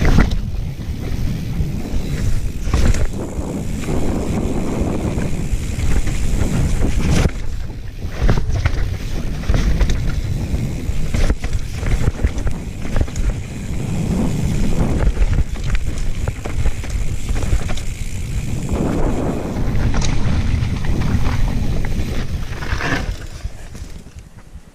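Wind buffeting the microphone over the rumble of a mountain bike rolling fast down a dirt trail, with scattered knocks and rattles from bumps. It quiets near the end.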